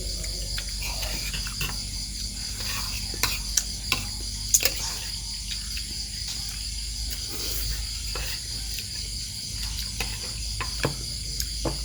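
Steady insect chorus, a continuous high-pitched buzz, with a scatter of sharp clicks and knocks, the loudest cluster about three to five seconds in.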